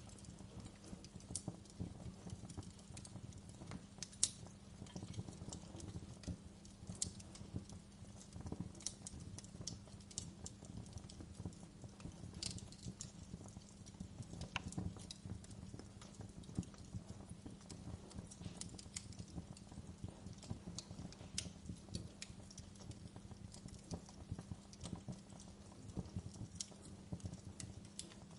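Wood fire in a fireplace crackling, with irregular sharp pops and snaps over a steady low rumble of the burning; one louder pop about four seconds in.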